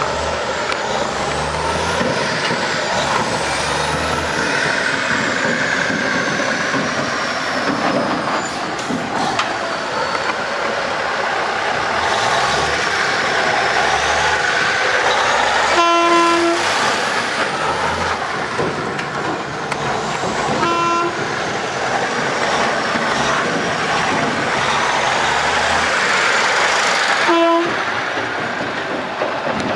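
A 1996 International dump truck running, with three short horn toots: one about halfway through, one a few seconds later and one near the end.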